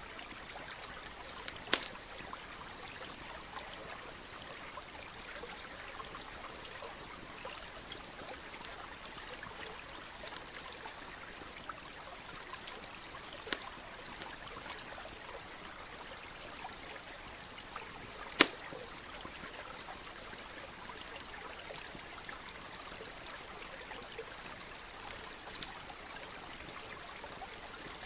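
Campfire crackling with scattered sharp pops, the loudest about two-thirds of the way through, over the steady flow of a stream.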